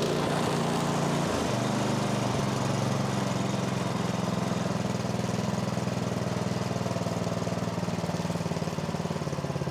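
Snowblower's small gas engine running steadily just after starting, settling within the first couple of seconds into an even run. With its carburetor's clogged pilot jet cleared, it runs like a champ.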